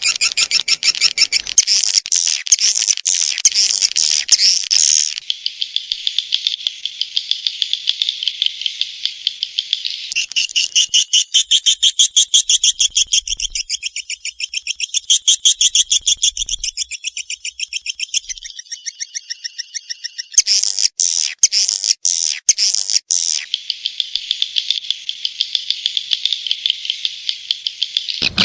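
Swiftlet calls of the kind played as a lure in swiftlet farming: dense trains of rapid, high twittering chirps. The pattern changes every few seconds as one call section follows another.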